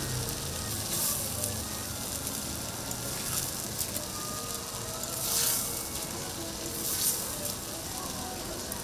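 Food sizzling and frying on a hot flat-top griddle: a steady hiss that swells louder a few times, most strongly about five and a half seconds in.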